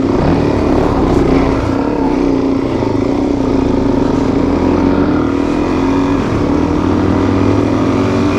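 Adventure motorcycle engine running under way at a fairly steady speed, heard from the bike, its note dipping briefly about five seconds in.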